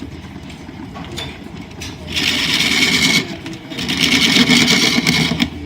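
Line-shaft driven wood lathe running with a steady low hum, while a turning tool cuts the spinning wood in two loud passes, about two seconds in and again about four seconds in.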